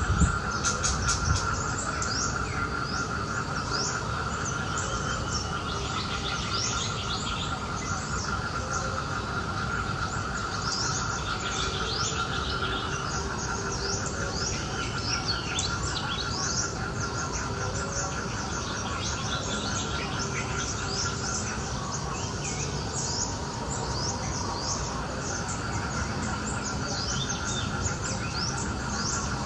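Birds chirping in many short, quick calls over a steady insect drone.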